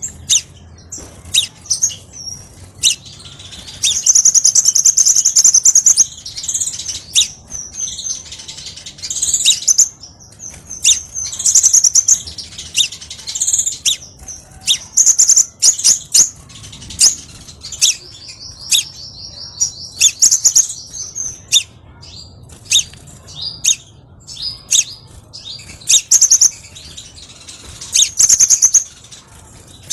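Crimson sunbird singing: a busy run of high, sharp chirps and fast buzzy trills, with longer trills about four seconds in and again around the two-thirds mark. The song is played as a lure and training call for caged sunbirds.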